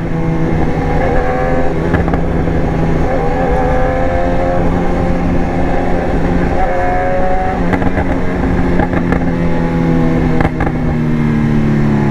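BMW S1000R inline-four motorcycle engine running at low road speed, its revs rising briefly twice and dropping near the end.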